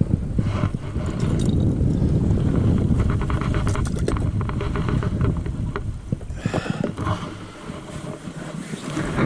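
Wind buffeting the microphone on a kayak on open water, with a run of light clicks about three to four seconds in and a brief splash of water past the middle.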